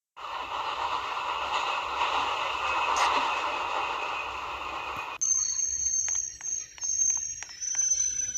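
Santiago Metro NS-93 train running, a steady loud noise with a few held tones in it. About five seconds in, it cuts off abruptly to a thin, steady, high-pitched tone with a run of short clicks.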